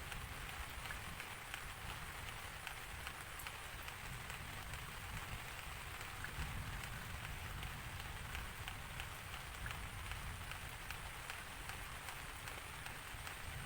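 Steady rainfall, with many small drop impacts ticking over an even hiss and a low rumble underneath.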